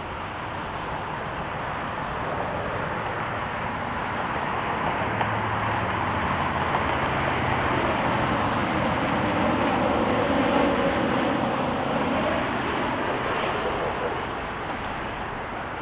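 Jet engines of a Southwest Boeing 737 MAX 8, CFM LEAP-1B turbofans, as the airliner passes on its arrival: a steady rushing roar that swells to its loudest about ten seconds in and then fades.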